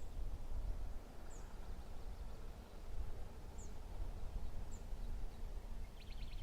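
Small forest birds calling faintly: a few thin, high single chirps, then a short rapid trill near the end, over a steady low rumble.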